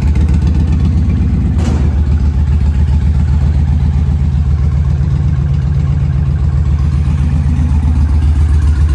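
Indian Challenger V-twin idling steadily through a Sawicki 2-into-1 exhaust with a fast, even pulsing beat. There is one brief sharp sound about a second and a half in.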